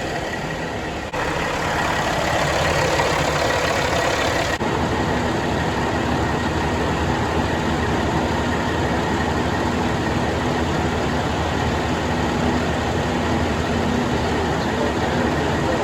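Freshly rebuilt Caterpillar C15 diesel in a Kenworth W900 truck running steadily on a chassis dynamometer while warming up, a loud, dense, even engine noise that steps up a little about a second in.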